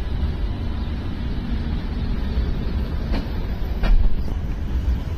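Passenger train coaches running past close by: a steady low rumble, with a few sharp clacks from the wheels about three and four seconds in.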